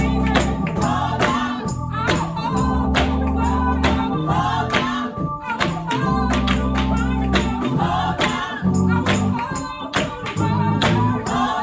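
Gospel music: a choir or congregation singing over low sustained chords, with tambourine and percussion keeping a steady beat.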